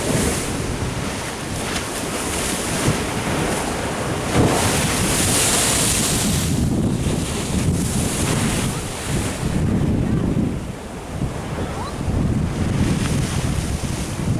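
Ocean surf washing in, with wind buffeting the microphone. A hissing wash of water swells about four to six seconds in.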